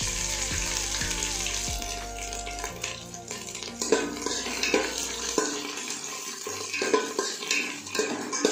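Whole spices and chopped ginger sizzling in hot ghee in a metal pot, the sizzle dying down about a third of the way in. Then a metal spatula scrapes and knocks against the pot as the spices are stirred.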